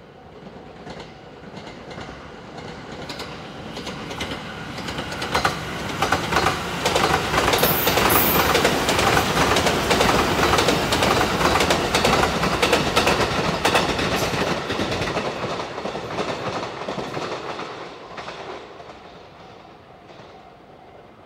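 Sunrise Seto sleeper train, a JR 285-series electric multiple unit, passing through without stopping. It grows louder as it approaches, is loudest as it goes by close with rushing wheel noise and rhythmic clicking over the rail joints, then fades away over the last several seconds.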